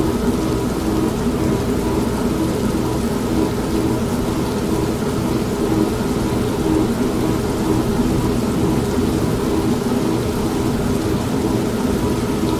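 Old manual washing machine running, a steady hum that pulses evenly, mixed with continuous rain and a low rumble.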